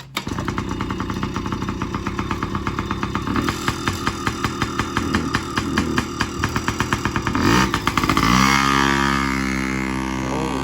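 A Yamaha PW50's small two-stroke single-cylinder engine starts almost at once and runs with a rapid, uneven firing beat. About eight seconds in the revs rise, and then it settles into a steadier, higher run.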